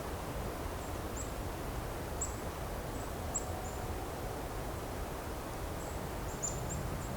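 Thin, very high call notes of golden-crowned kinglets, short and scattered about once a second, over a low steady outdoor rumble.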